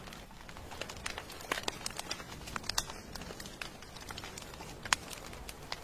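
Wood fire crackling with irregular sharp pops, one louder pop near the end, over a steady hiss of rain.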